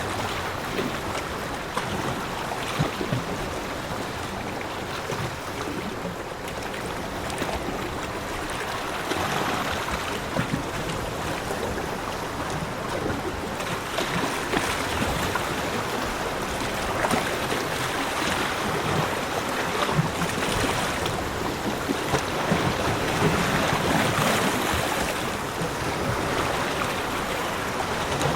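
Ocean waves breaking and washing on a beach, a steady rush of surf that swells and eases every few seconds.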